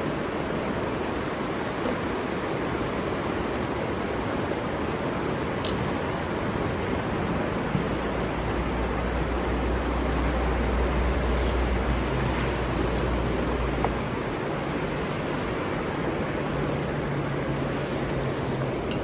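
Steady rush of flowing river water, with a low rumble joining in between about 8 and 14 seconds and a few faint ticks.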